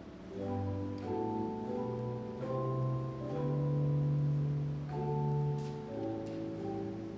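Church organ playing a slow prelude in held chords, the notes steady and changing about every second over a low sustained bass.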